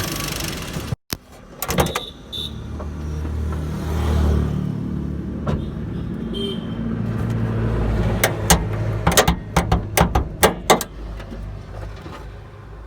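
Suzuki Alto Turbo RS's small turbocharged engine idling with a steady low hum, after a second of louder rushing noise that breaks off suddenly. A string of sharp clicks and knocks comes about eight to eleven seconds in.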